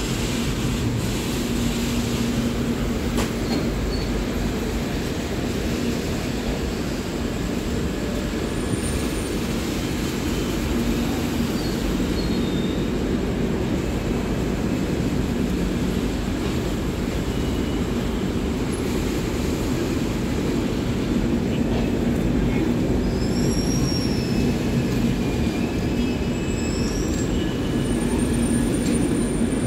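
Rajdhani Express passenger train running, a steady rumble with a low hum, and a few thin high squeals in the second half.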